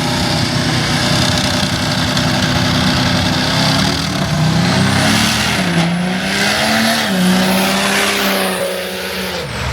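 Diesel pickup truck accelerating hard down a drag strip, its engine pitch climbing and dropping back several times as it shifts gears, with a thin high whistle rising over it in the second half. The sound cuts off just before the end.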